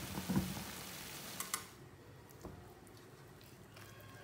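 Chicken and masala in a kadai sizzling faintly in oil with the gas just turned off; the sizzle cuts off suddenly a little under two seconds in. A soft knock near the start and a few light clicks follow.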